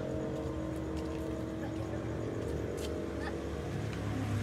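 Car engine idling steadily, with faint voices in the background.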